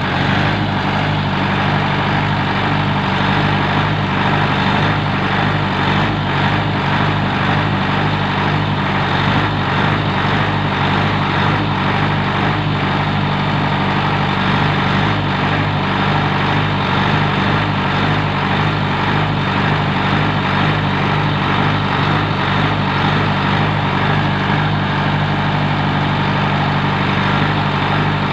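Heavy diesel machine engine running steadily at an even speed, with a constant low hum and no revving.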